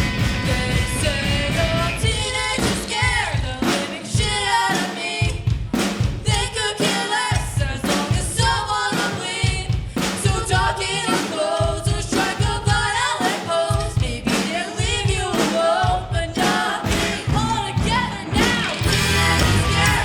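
Rock band playing live: a singer over guitars, bass and drum kit, with the drums and bass filling out near the end.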